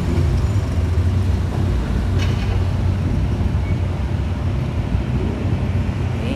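A car engine running steadily close by, with a deep, even rumble.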